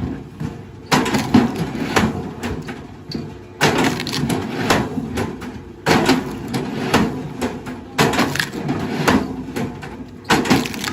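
Wood cracking, crunching and splintering under heavy machinery, coming in repeated surges about every two seconds with sharp cracks inside each.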